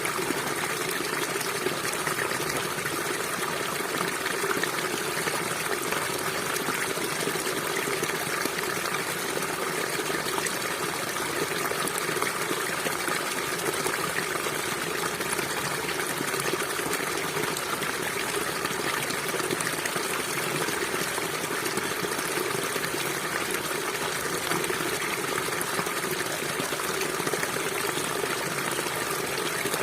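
Steady rushing of a flowing river, even and unbroken.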